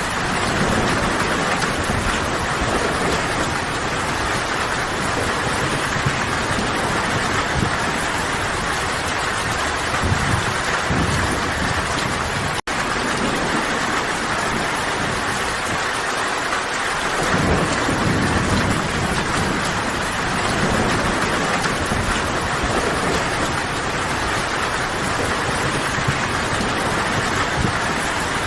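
Steady rain falling in a forest: a dense, even hiss with a low rumble underneath that swells and fades. The sound cuts out for an instant about halfway through.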